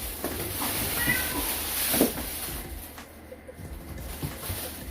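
A pet cat meowing briefly, a short high call about a second in, with a sharp knock about two seconds in.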